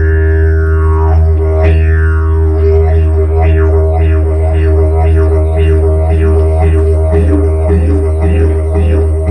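Didgeridoo playing a steady, unbroken low drone, held by circular breathing. Its overtones sweep downward early on and then pulse in a quick rhythm, about two or three beats a second.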